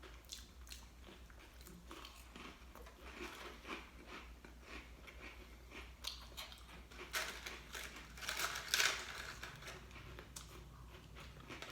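Dry crackers with herbes de Provence being bitten and chewed: a run of small crisp crunches, louder in the second half.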